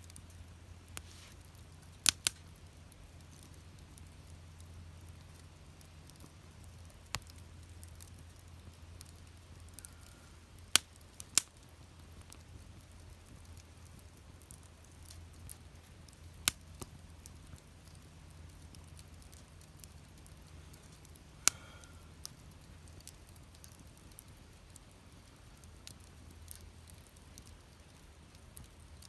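Wood fire burning in a fire pit, with sharp crackling pops at irregular intervals of a few seconds over a low steady hum.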